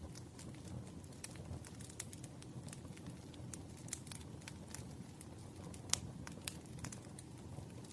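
Firewood burning, crackling with irregular sharp pops and snaps over a low steady background; the loudest pop comes about six seconds in.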